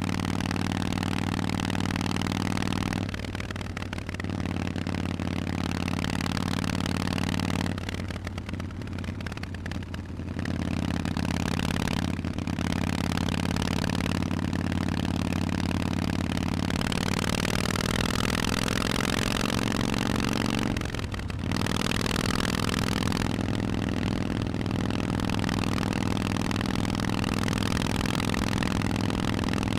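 Harley-Davidson Forty-Eight's V-twin engine running through Vance & Hines exhausts while being ridden. The exhaust note dips briefly four times and rises steadily in pitch for a few seconds past the middle as the bike accelerates.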